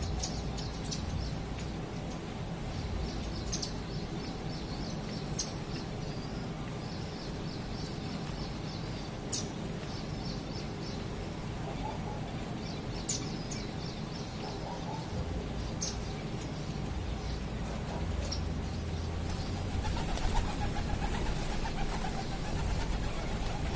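Indian silverbills chirping in runs of short, high notes. A lower, wavering call from another bird joins in now and then, most of all near the end.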